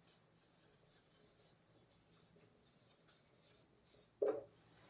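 Faint scratching of a pen writing, with one brief louder sound about four seconds in.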